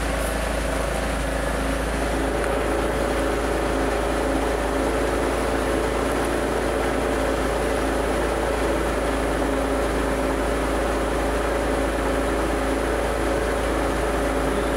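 Mitsubishi 3000GT's 3.0-litre V6 idling steadily, running after repair and a fresh timing job.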